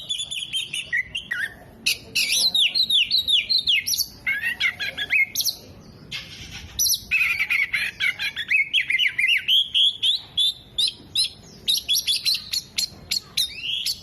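Oriental magpie-robin (kacer) in full song: a fast, varied run of loud chirps, sweeping whistles and trills, including phrases mimicked from other birds such as sunbirds and lovebirds, with a brief lull about six seconds in.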